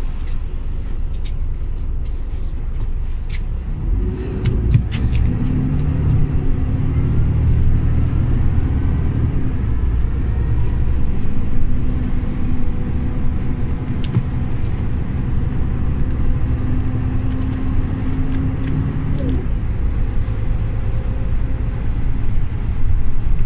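Scania OmniLink CL94UB city bus engine running: it rises in pitch and loudness about four seconds in, holds a steady pulling note under load, then eases off near the end.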